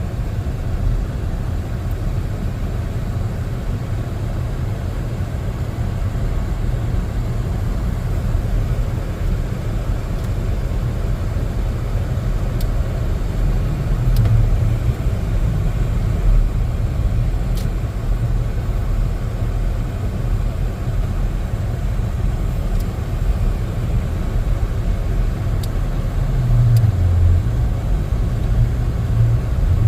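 A car driving on a highway: a steady low rumble of road and engine noise, with a brief hum rising over it twice.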